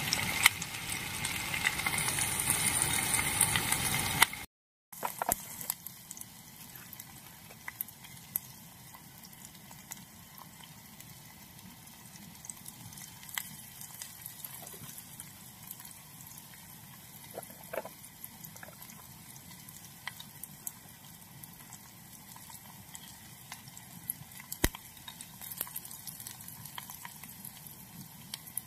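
Chopped onions sizzling as they fry in a small camping pot on a portable gas stove. About four seconds in, the sound cuts out for a moment and comes back much quieter: a faint sizzle with scattered light clicks.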